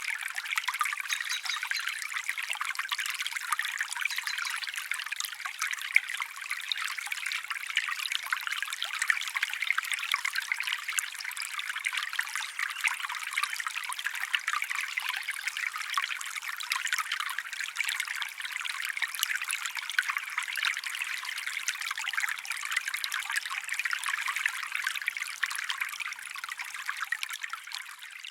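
Small stream trickling and babbling steadily, a light bright splashing with no deep rush, beginning to fade out at the very end.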